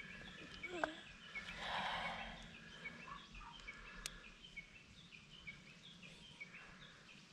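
Faint outdoor background of birds chirping over and over in short high notes, with a brief swell of rustling noise about two seconds in and a single click a little later.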